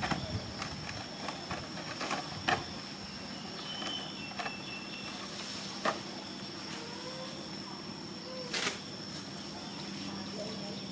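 Steady high-pitched insect drone, broken by a few sharp clicks and rustles.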